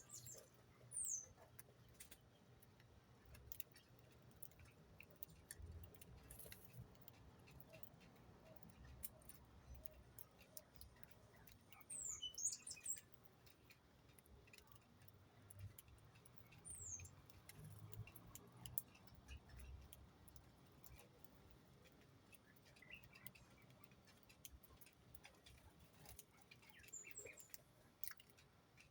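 Faint, sparse high chirps from small birds, a few short thin calls sliding down in pitch, with scattered light ticks and taps between them.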